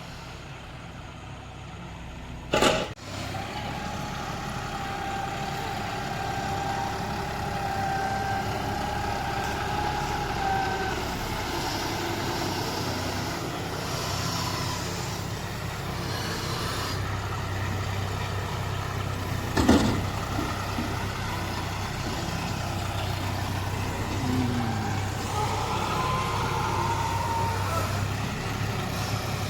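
Tractor diesel engine running steadily under a loader, with two sharp loud bangs, one near the start and one about two-thirds of the way through. A steady high whine runs for several seconds in the first half.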